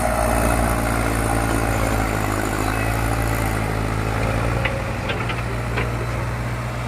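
Mahindra 575 DI XP Plus tractor's four-cylinder diesel engine running at a steady pitch, with a few light clicks about five seconds in.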